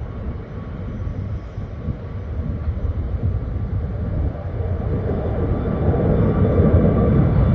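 Jet airliner taking off, its engines at takeoff thrust growing steadily louder.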